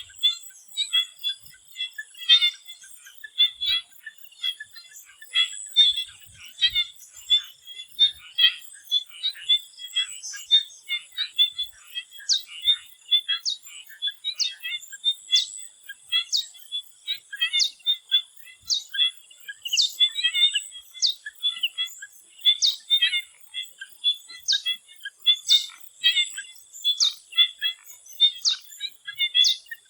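Swamp frog chorus: many rapid, overlapping chirping calls with a thin steady high tone above them. From about twelve seconds in, a short falling whistle repeats roughly once a second.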